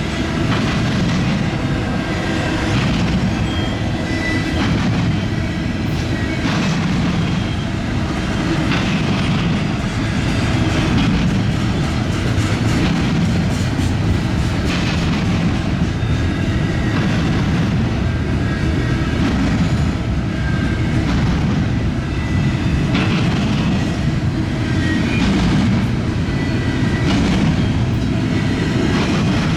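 Long intermodal freight train's cars rolling past in a steady rumble, with wheels clacking over the track every second or two and a faint high wheel squeal at times.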